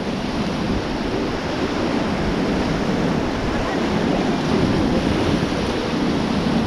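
Steady rush of fast-flowing river water in rapids, with some wind on the microphone.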